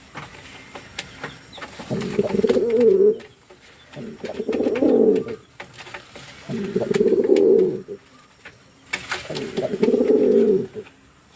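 Lakkha (fantail) domestic pigeon cooing, four low cooing phrases in a row about two seconds apart.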